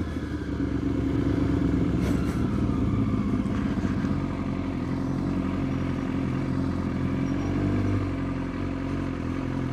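Sport motorcycle engine running steadily at low revs.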